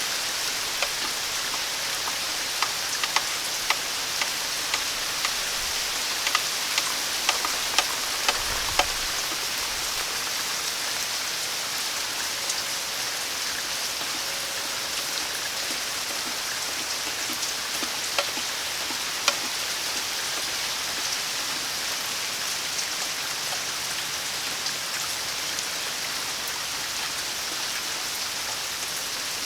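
Steady rain falling, with many sharp drops tapping nearby, most often in the first third.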